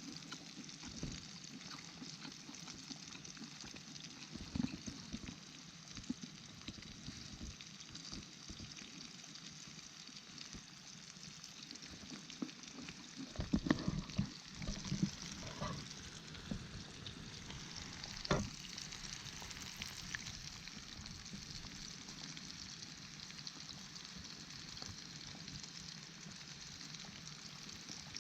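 Pieces of karaage chicken deep-frying in hot oil, a steady sizzle, with a cluster of knocks and clatters about halfway through and one sharp knock a few seconds later.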